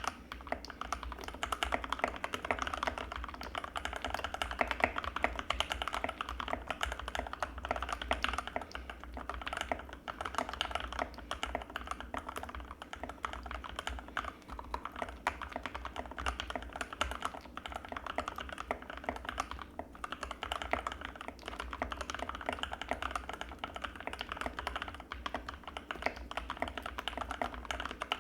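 Continuous fast typing on an Anne Pro 2 mechanical keyboard with Gateron Red linear switches: a dense stream of rapid keystrokes.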